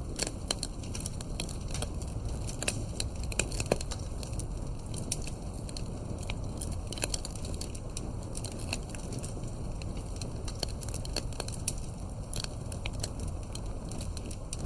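Campfire crackling: frequent sharp pops and snaps over a steady low rumble, with a few louder snaps in the first four seconds.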